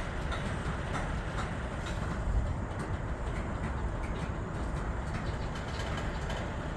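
Norfolk Southern freight train cars rolling past, a steady low rumble of wheels on rail with a few faint clicks.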